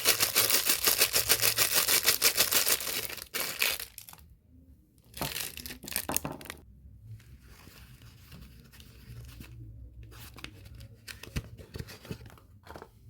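Soap packaging being torn open and crinkled: a long run of rapid close crackling tearing noise, two shorter tearing bursts a couple of seconds later, then softer scattered rustles and crinkles as the wrapper is handled.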